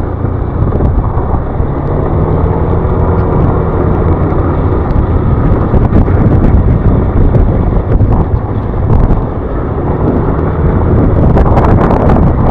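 Wind rushing over the microphone and a motor scooter's engine running while riding, with the engine tone rising a little a couple of seconds in.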